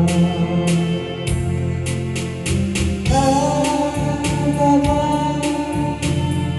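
Backing music for a slow Korean ballad, heard between sung lines: a steady drum beat, with a held melody line coming in about halfway.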